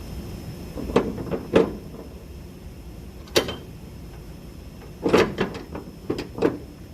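Irregular sharp knocks and clanks of strapping gear on a flatbed trailer: a few hits about a second in, a single one in the middle, and a quick cluster near the end.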